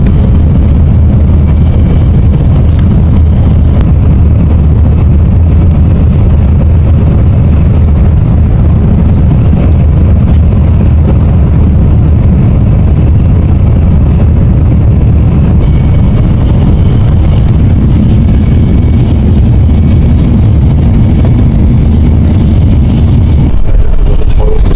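Loud, steady low rumble of a moving vehicle, with a slight change in its low hum about a second before the end.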